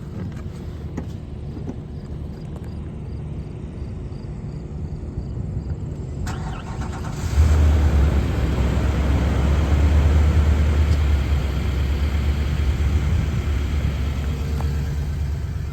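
2019 Nissan Titan's V8 engine being started: about six seconds in the starter cranks briefly, the engine catches with a jump in loudness, then settles into a steady idle.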